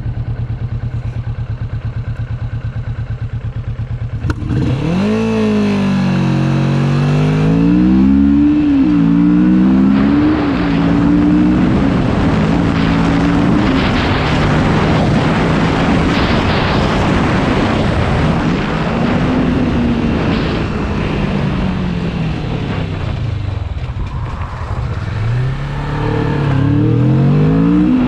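Motorcycle engine idling with a steady low pulse, then revving up about four seconds in and pulling away, its pitch climbing and dropping with each gear change. It settles into cruising under a rushing noise, falls away as it slows, and climbs again near the end.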